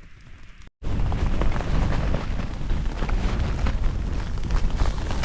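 Storm wind buffeting a small backpacking tent: a low, heavy rumble of gusts with the fabric flapping and sleet ticking on the flysheet. A short, quieter stretch gives way, under a second in, to the much louder storm.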